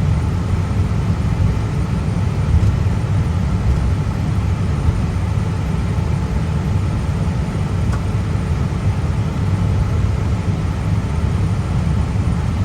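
Steady low rumble inside an Airbus A320 cockpit while the jet taxis after landing: engines at idle and the airframe rolling on the taxiway, with no change in level.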